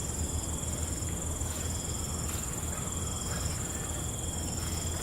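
Night insect chorus: one unbroken high trill, with other insects calling in short spells of about a second at two lower pitches, over a steady low hum.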